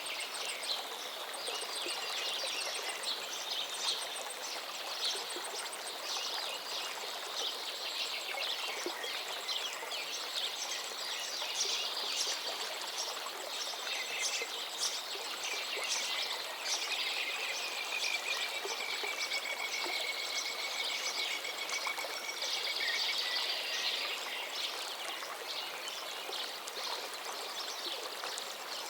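A river flowing steadily while many songbirds chirp and sing over it. Near the middle, one bird gives a long, drawn-out call that falls slightly in pitch.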